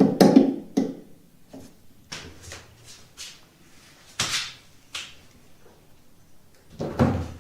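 Scattered clicks and knocks of hands handling things, with two louder scraping knocks about four and seven seconds in.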